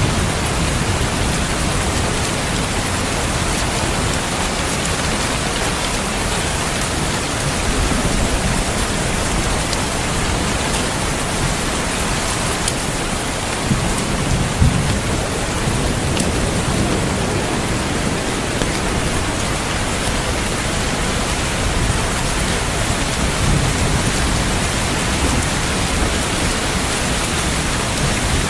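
Heavy rain falling steadily, with low rumbles of thunder rolling in a few times, the strongest about halfway through.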